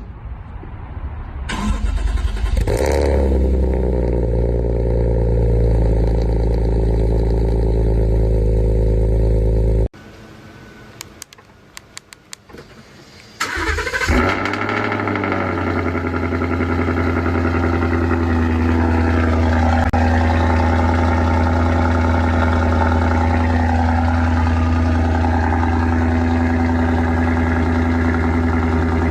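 Two car engines cold-started one after the other. The first catches about two seconds in and settles into a steady idle before cutting off abruptly. After a few quieter seconds with several sharp clicks, a second engine fires up and settles into a steady idle.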